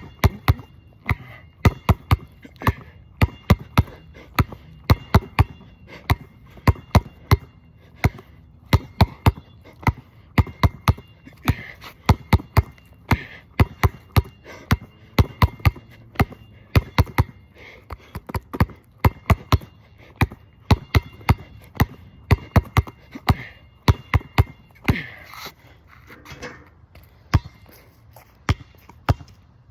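Basketball dribbled hard and fast on a wet court: sharp bounces, about two to four a second, in an uneven rhythm of ball-handling moves.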